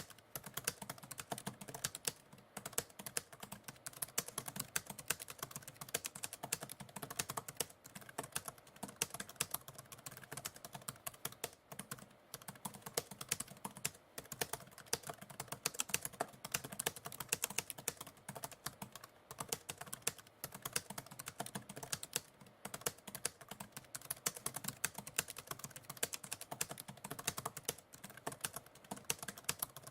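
Continuous typing on a computer keyboard: a quick, uneven patter of key clicks with brief pauses between runs.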